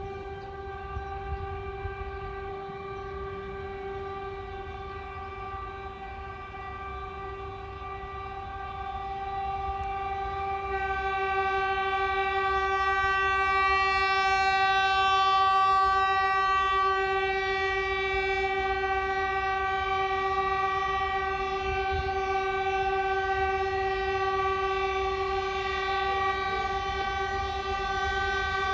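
A 4ES5K Ermak electric locomotive's typhon horn sounding one long, unbroken blast on a single steady pitch, growing louder about ten seconds in, over the low rumble of the moving freight train.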